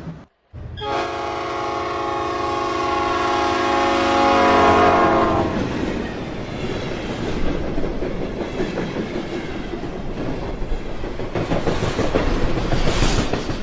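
Train horn sounding one long multi-note blast for about five seconds, followed by the rumble and clatter of a train running on the rails.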